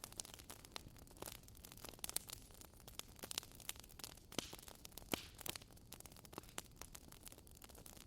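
Wood fire burning, with irregular crackles and sharp pops over a soft steady hiss.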